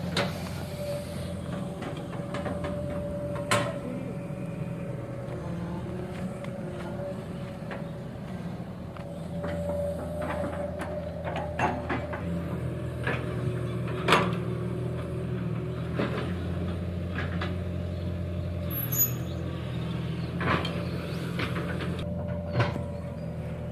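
Diesel engines of a tractor and a JCB backhoe loader running steadily, hauling a heavily loaded trolley. Sharp knocks or clanks break in every few seconds, the loudest about fourteen seconds in.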